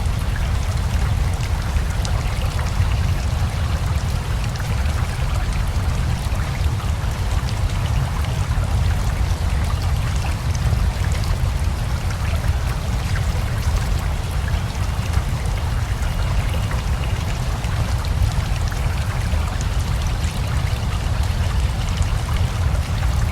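Steady rain together with a flowing river: a continuous rush of water with a deep low rumble, and a fine patter of drops over it.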